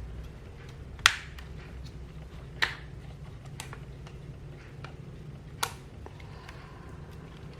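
Three sharp clicks and a few fainter ticks from handling a Canon EOS M50 camera body on a workbench, over a steady low hum.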